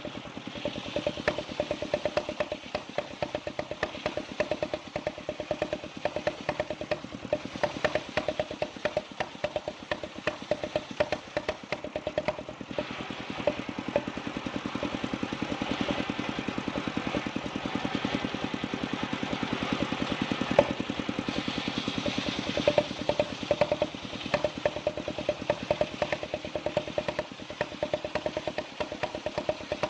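Engine of a wood-sawing machine running steadily with a fast, even beat. A hiss rises in the middle stretch and fades again near the end.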